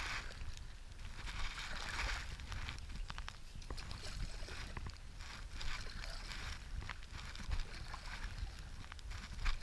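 River water sloshing and splashing around a stand-up paddleboard on a whitewater stretch, with short splashy swells and small clicks. A steady low rumble of wind runs on the microphone underneath.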